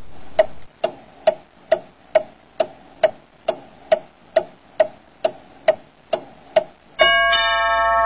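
Ticking clock counting down a quiz answer time, about two ticks a second, evenly spaced. About seven seconds in the ticking stops and a sustained chime chord of several steady tones comes in and holds.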